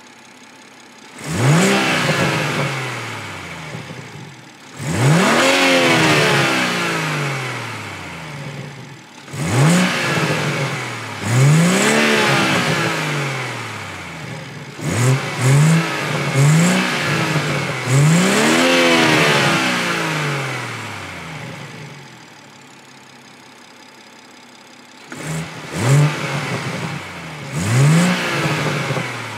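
BMW M140i's 3.0-litre turbocharged straight-six, warm, being revved while stationary through its K&N panel air filter. It makes about ten throttle blips, some long and some quick stabs in pairs, each rising sharply and sinking slowly back to idle. The longest stretch of idle comes a little past two-thirds of the way through.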